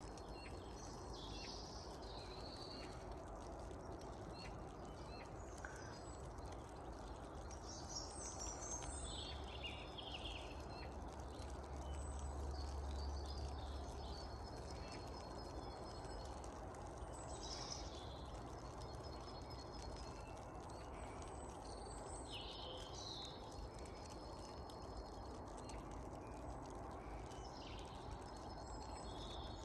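Faint quiet ambience with small birds chirping now and then. A low rumble swells briefly about halfway through.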